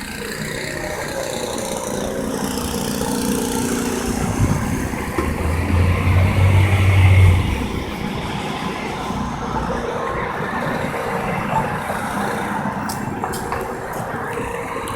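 Street traffic: motor vehicles running, with a deep engine hum that grows louder for about two seconds near the middle.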